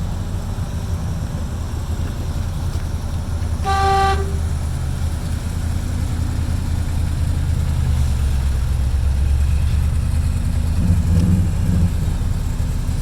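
1956 Dodge tow truck's engine running with a steady low rumble, getting louder for a few seconds past the middle, with one short horn toot about four seconds in.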